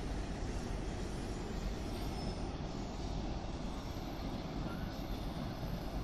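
A train running past at a distance: a steady rumble of wheels on the rails.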